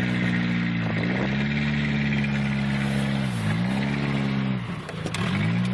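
Truck engine revving in several held pushes, the pitch dropping briefly about a second in, again past three seconds, and near the end before it picks up again: the truck is stuck and being driven hard to get out.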